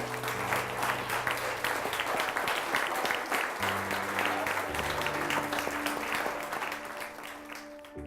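A room of guests clapping steadily, a dense patter of many hands, which cuts off abruptly near the end.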